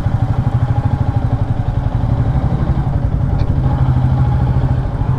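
Royal Enfield Meteor 350's single-cylinder engine running steadily at low revs, with an even, rapid thumping beat.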